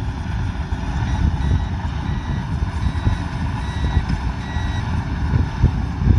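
Farm machine's diesel engine running with a steady low rumble, while a reversing alarm beeps faintly over it, about one short beep every three quarters of a second for several seconds.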